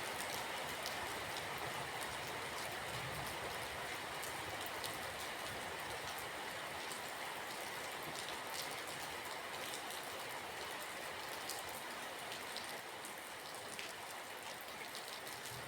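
Steady rain falling, with many small drops pattering individually on a surface over an even hiss. It fades slightly toward the end.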